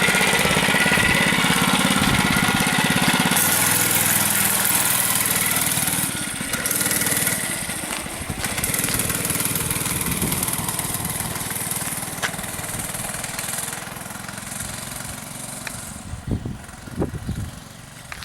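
Monster Moto MM-B80 mini bike's small four-stroke single-cylinder engine running, loud at first, then dropping about six seconds in and fading steadily as the bike moves away. A few thumps come near the end.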